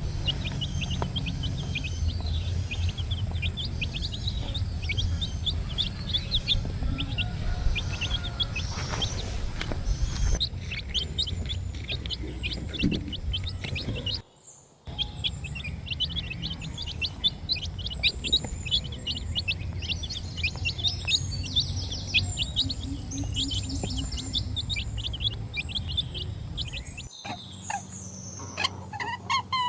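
A flock of chicks peeping: a dense, continuous chorus of short, high-pitched, falling cheeps over a low rumble. It cuts out briefly about halfway through.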